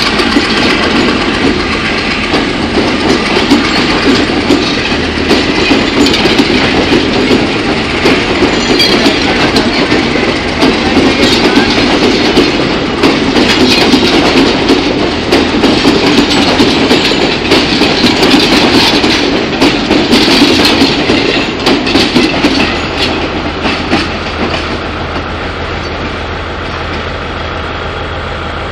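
Passenger coaches of a diesel-hauled express train rolling past on the track, their wheels clattering over the rail joints in a dense run of clicks. About 22 seconds in the clatter fades as the train draws away, leaving a quieter, steadier rumble with a low hum.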